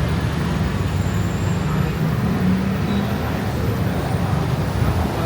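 Steady low rumble of road traffic along a busy city street.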